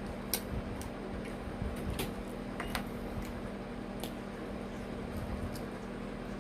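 Mukbang eating sounds: a few short, sharp mouth clicks and smacks of chewing close to the microphone, over a steady low electrical hum.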